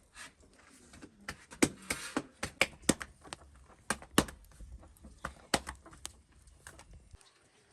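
A string of about ten irregular sharp clicks and knocks, some loud, over a low background hum that cuts off shortly before the end.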